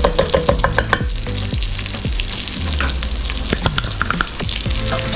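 Chicken wings sizzling as they fry in a pan of oil and honey, with a quick run of sharp clicks in the first second and scattered clicks after, as garlic goes into the pan.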